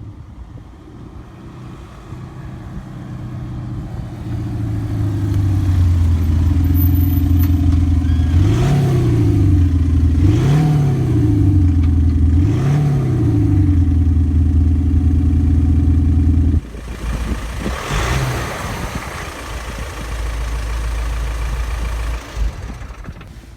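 Simulated V8 engine sound from a Kufatec Sound Booster Pro active sound generator on a VW Amarok 2.0 BiTDI diesel: it idles, then rises and falls in three revs a couple of seconds apart. The sound cuts off suddenly about two-thirds of the way in, leaving a rougher engine sound with one more brief rev.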